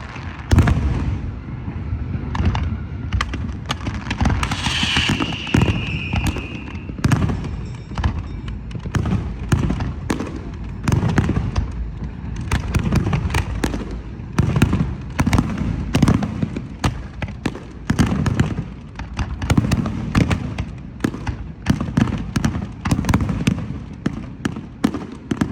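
Aerial fireworks display: a rapid, continuous string of sharp bangs and deep booms from bursting shells. A single whistle falls in pitch a few seconds in.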